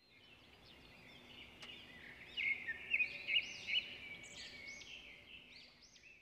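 Birds chirping together: many quick rising-and-falling chirps, loudest in the middle and stopping at the end.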